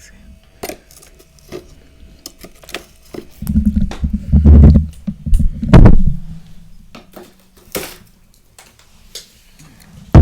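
Freezer frost being scraped and knocked loose with a utensil: scattered sharp clinks, and a loud stretch of rough, low scraping in the middle.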